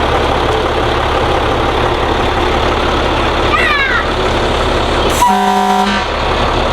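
A vehicle engine idling steadily, with one short toot of a fire truck's horn about five seconds in.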